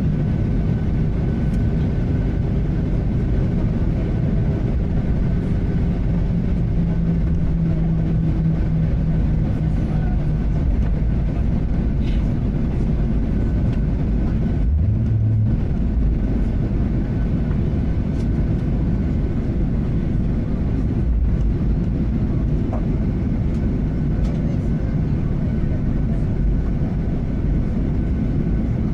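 Boeing 737-800 cabin noise while taxiing after landing: a steady low rumble from the engines at idle and the wheels rolling on the taxiway.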